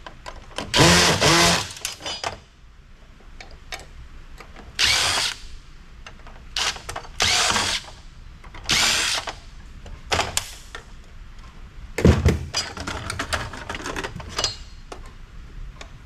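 Cordless drill-driver backing out the screws that hold an amplifier's aluminum heat sinks, in a series of short bursts. Small clicks and knocks of metal parts come between the bursts, thickest near the end.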